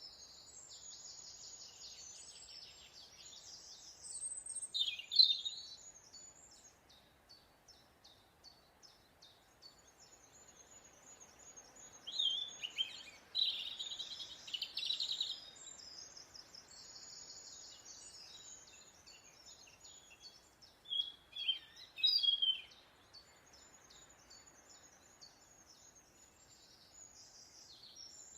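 Wild birds singing and calling: a running chorus of short, rapid, high-pitched chirps, with louder bouts of calls a few seconds in, around the middle, and again about three-quarters of the way through.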